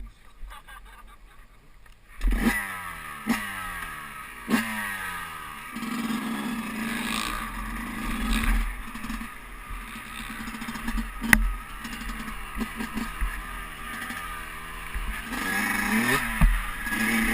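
Motocross dirt bike engine revved in three quick blips, each falling away in pitch, starting about two seconds in, then running on at varying revs. A sharp click comes partway through.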